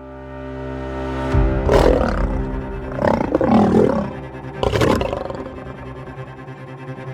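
Three loud animal roars, a cartoon rhinoceros scolding, over steady background music.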